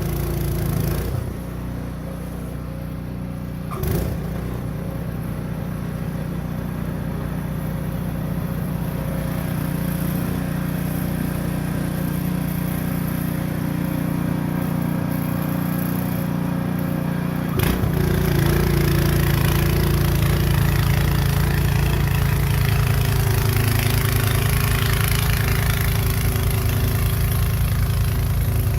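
Craftsman gas snow blower engine running steadily. There is a sharp knock about four seconds in, and a little past halfway the sound abruptly gets louder and harsher and stays so.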